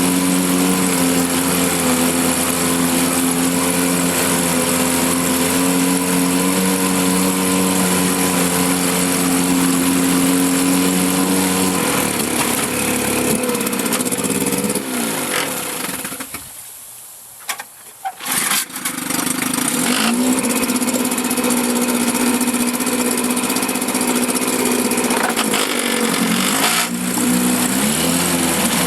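1954 Johnson CD-10 5.5 hp two-cylinder two-stroke outboard running steadily in a test barrel. About halfway through it slows and cuts out, goes quiet for a couple of seconds, then picks up again and runs on. It sags and recovers briefly once more near the end.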